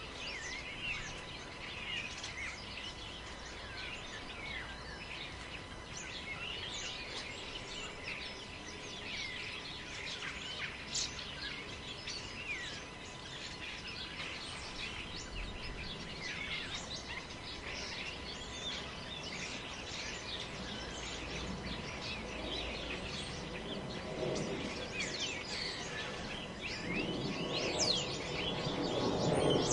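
Forest ambience: many small birds chirping and calling throughout over a steady haze of wind noise, with a lower rushing sound swelling over the last few seconds.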